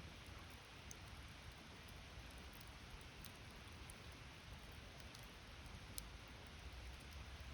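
Wood campfire burning quietly: a low steady hiss with sparse small crackles and pops, the clearest about six seconds in.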